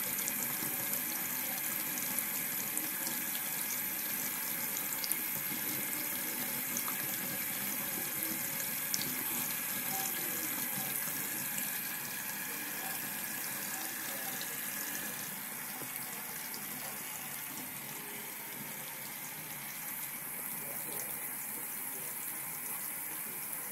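Water tap running steadily into a sink, a continuous splashing stream that gets a little quieter after about twelve seconds.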